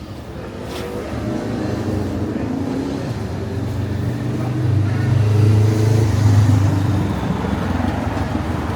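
A motor vehicle's engine passing close by on the street, its low hum growing louder to a peak about five or six seconds in, then easing off a little.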